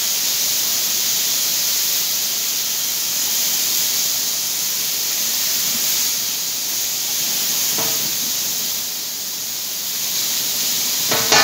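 Barbecue chicken frying on a steel plate, a steady sizzling hiss, with a light clink of metal tongs about eight seconds in and sharp clicks of the tongs at the very end.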